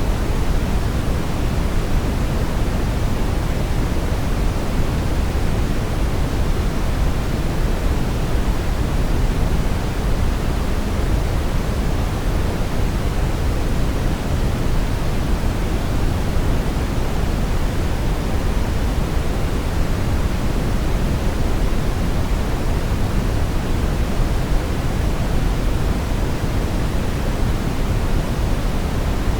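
Brown noise: a steady, deep rushing hiss, strongest in the bass and fading towards the treble, with no change throughout.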